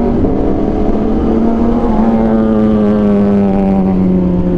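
V4 superbike engine with an SC Project exhaust running at a steady cruise over a constant low rumble, its pitch dropping slightly about two seconds in as the throttle eases.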